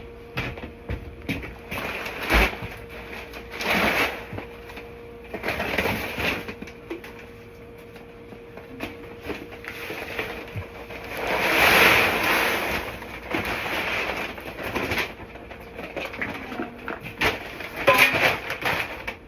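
Dry grain feed being poured from bags into a bucket, in several rushing pours with the longest about halfway through, amid rustling of the bags and knocks from handling.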